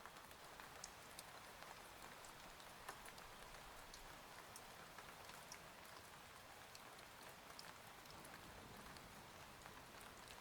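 Faint, steady rain: an even hiss with scattered individual drops ticking irregularly.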